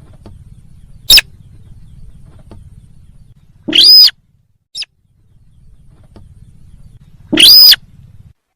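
Recorded sintar lure call played loud and distorted: a short sharp call about a second in, then two longer calls that rise and fall in pitch, with a low steady hum between calls.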